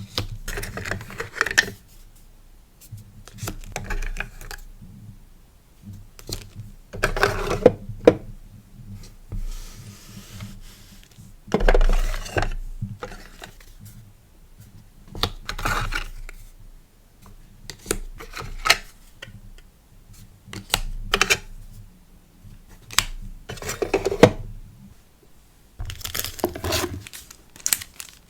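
Small stationery items and packaging being handled to pack a sticker order: irregular light taps and clicks on a desk, with a few short rustles of paper or plastic.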